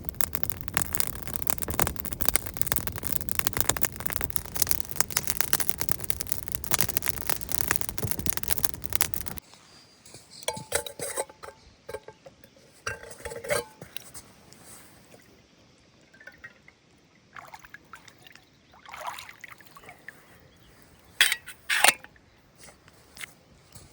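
Dense crackling for about nine seconds, then cut off abruptly. After that come a few light ringing clinks with liquid being poured, and two sharp clicks near the end.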